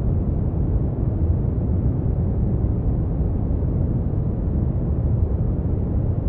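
Steady brown noise: an even, deep rumbling hiss, strongest in the bass, with no changes.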